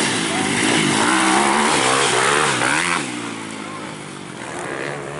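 Motocross bike engines revving hard, the pitch rising and falling with the throttle. The sound is loud for about three seconds, then drops off suddenly and continues more faintly.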